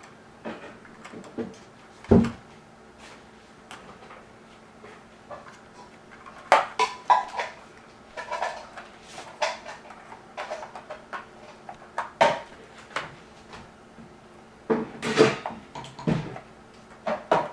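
Plastic Lego pieces being handled: irregular clicks, knocks and rattles, with a dull thump about two seconds in and busier clattering near the middle and toward the end.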